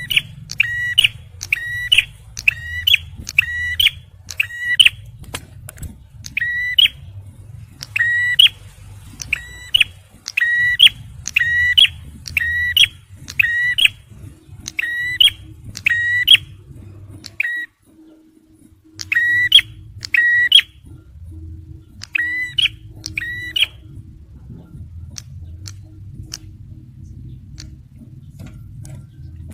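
Male prenjak merah (ciblek), a prinia, singing in a fast string of loud, sharp repeated notes, about two a second, broken by short pauses. The calls stop about three-quarters of the way through, leaving only a low background hum.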